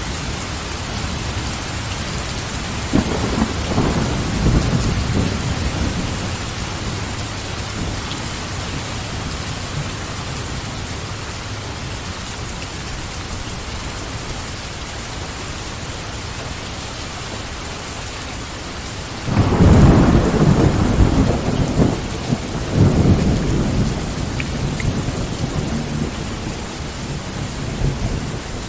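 Steady heavy rain falling, with two rolls of thunder: a lighter rumble a few seconds in and a louder one that breaks suddenly past the middle and rumbles on for several seconds.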